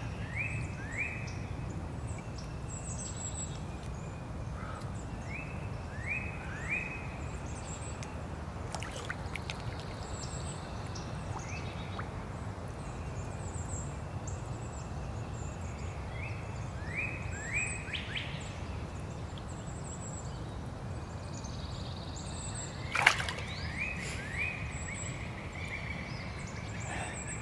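Swamp ambience with spring birdsong. One bird repeats a phrase of three quick falling whistles every few seconds, with high chirps recurring throughout, over a steady low rumble. A single sharp knock about 23 seconds in is the loudest sound.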